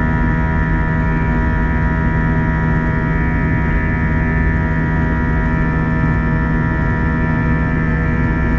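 Airbus A321 cabin noise during the climb after takeoff: a steady drone from the jet engines and airflow, with several steady humming tones over a low rush, heard from inside the first-class cabin.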